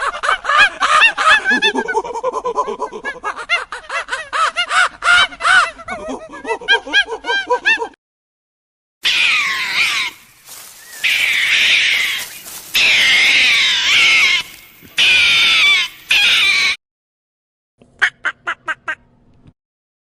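A run of edited animal clips. First come many quick repeated calls; after a short silence there is a dense, high-pitched chorus of calls; then, near the end, a brief string of quick pulses.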